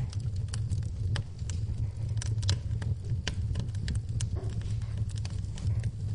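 Wood fire in a fireplace crackling, with irregular sharp pops and snaps a few times a second over a steady low rumble of the flames.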